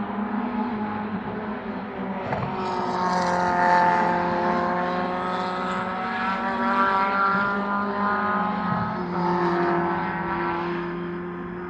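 Racing car engines running, a steady drone whose pitch drifts gently up and down over several seconds.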